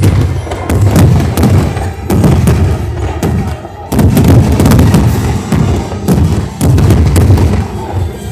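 Fireworks going off in a rapid, dense run of booms and sharp cracks, with a brief dip just before the middle.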